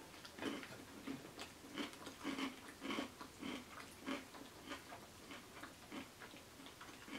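A person chewing a mouthful of bowtie Caesar pasta salad: short, soft mouth smacks, about three a second.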